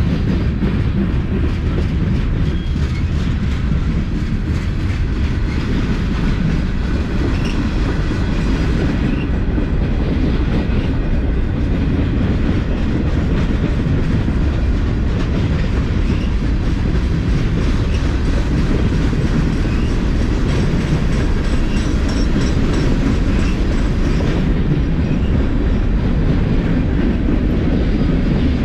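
Cars of a mixed freight train rolling steadily past on the track, a continuous loud rumble of wheels on rail.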